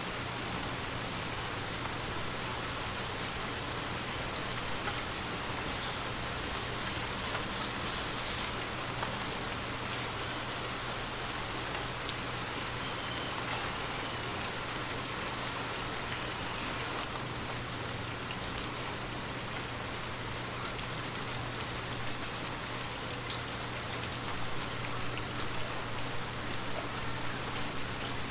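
Steady rain falling, with an occasional single drop ticking out above the even hiss.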